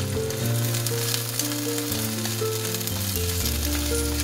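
Beaten eggs and chopped green onions sizzling and crackling in hot oil in a nonstick frying pan as wooden chopsticks stir them.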